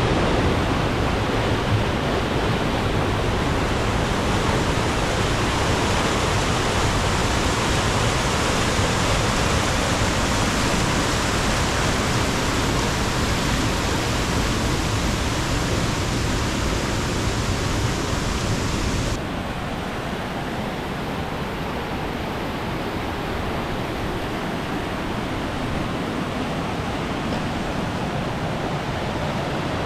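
Waterfall: a steady, loud rush of falling water. About two-thirds of the way through it becomes a little quieter and duller.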